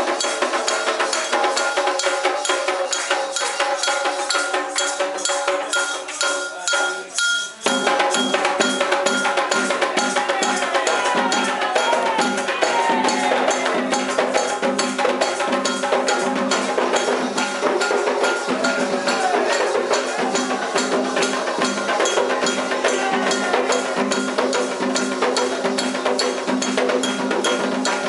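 Candomblé ritual percussion: atabaque hand drums and an agogô bell keep a fast, steady rhythm, with voices chanting over it. Near seven seconds in the rhythm drops away briefly, then comes back fuller.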